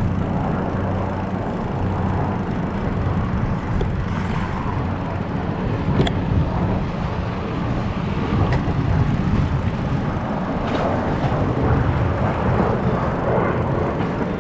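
Steady low rumble of outdoor ride noise and road traffic on the moving bicycle's camera microphone, with a sharp click about six seconds in.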